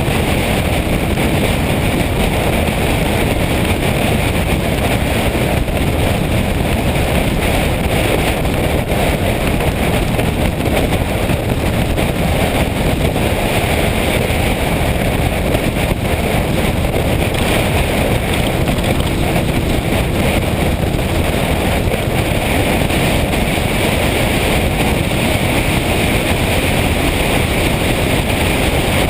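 Motorcycle riding at a steady speed: a constant rush of wind over the microphone mixed with engine and road noise, with no change throughout.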